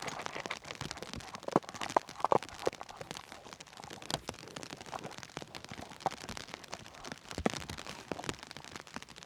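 Heavy rain falling on a tent, an even hiss dotted with many sharp drop hits, a few louder ones between about one and a half and two and a half seconds in and again near the end.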